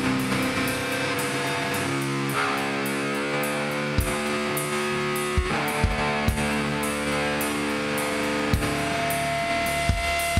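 Live hardcore band playing: distorted electric guitar chords held and ringing, changing a couple of times, over a few sparse, separate drum hits.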